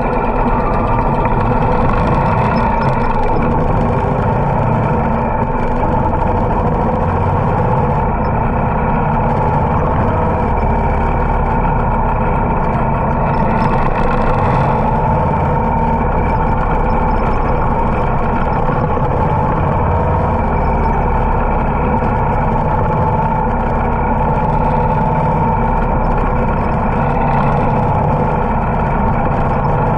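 Motorcycle engine running steadily while riding, a constant loud drone with a low rumble.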